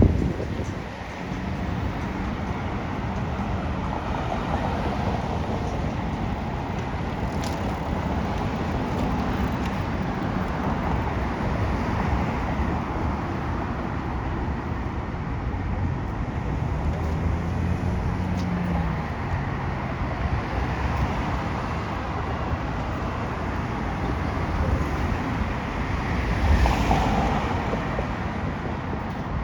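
City street traffic: a steady wash of cars passing, with an engine note for a few seconds past the middle and a louder vehicle passing near the end.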